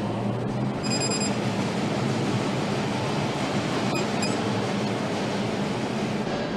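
Steady hum and rush of assembly-line machinery in a factory hall, with a short electronic beep about a second in and a few light clicks around four seconds.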